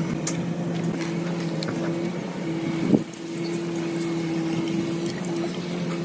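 Steady mechanical hum of a machine running at constant speed, with one brief sharp surge about three seconds in.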